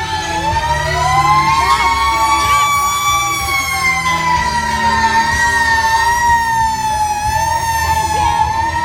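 Fire truck siren wailing, its pitch slowly rising and falling, over a low engine rumble.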